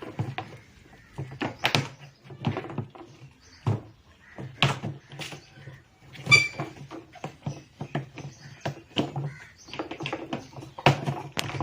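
Irregular knocks and clunks of a top-loader washing machine's drum being worked free and lifted out of its tub, with a short squeak about six seconds in.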